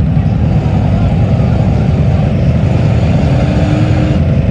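Mud truck engine running loud and steady, its sound heavy in the low end.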